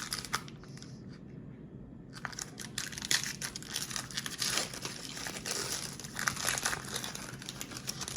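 Wrapper of a trading card pack crinkling and tearing as it is opened by hand. The crinkling is dense and crackly, and starts in earnest about two seconds in after a short lull.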